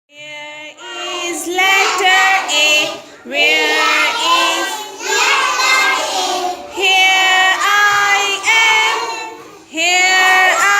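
A child's voice singing a vowel-sounds phonics rhyme in a run of short sung phrases, with a brief gap between each.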